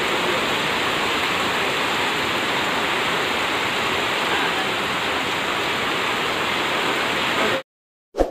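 Heavy rain pouring onto a flooded street, a steady loud hiss that cuts off suddenly near the end, followed by one short blip of a sound effect.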